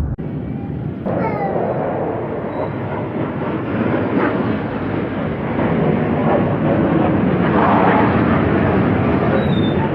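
Military fighter jets flying over, their engine noise steady and loud, with a falling whine just after a break about a second in.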